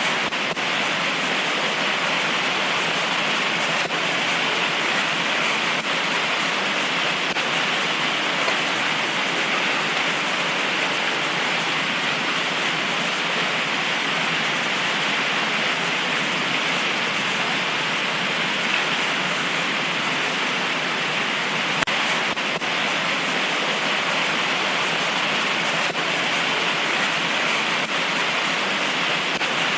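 Heavy tropical rain pouring down steadily, an even hiss with a few sharp taps, the clearest about 22 seconds in.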